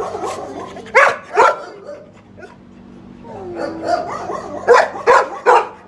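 Shelter dogs barking in their kennels: two sharp barks about a second in, a falling whine in the middle, then three quick barks near the end.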